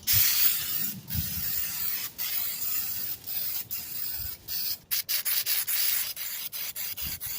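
Aerosol can of rubberized truck bed liner spraying in a run of hissing passes with short breaks between them, the breaks coming quicker in the last couple of seconds.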